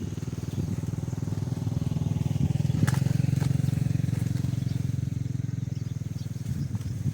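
A small engine running steadily with a low, rapidly pulsing rumble that grows a little louder about three seconds in.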